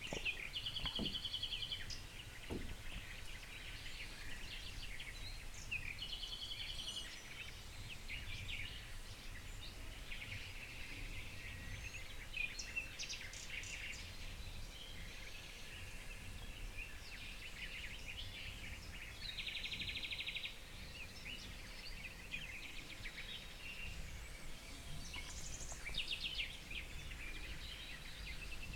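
Several wild songbirds singing and calling at once: overlapping chirps and short trills, a few of them louder and buzzier, over a steady low outdoor rumble.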